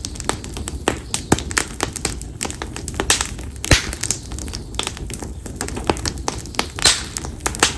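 Split konara oak (Quercus serrata) firewood burning in a bonfire, crackling with frequent irregular sharp pops over a low steady rumble; the loudest pops come about four seconds in and again near seven seconds.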